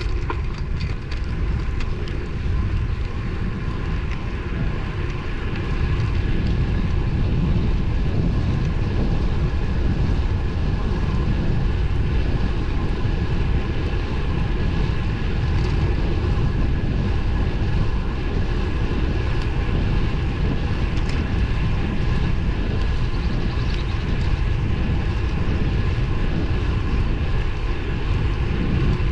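Wind rushing over the microphone of a moving road bike, with steady road noise and a faint steady whine. It gets a little louder about six seconds in.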